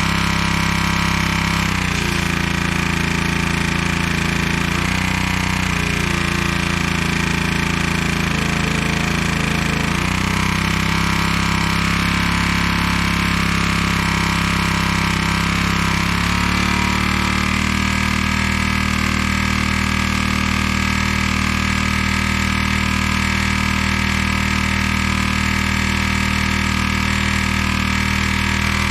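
Honda GX200-clone single-cylinder four-stroke engine running steadily, its speed shifting several times and then holding steady for the last part, as the speed screw is adjusted. It is running below its rated speed, at roughly 2,600 to 2,700 RPM.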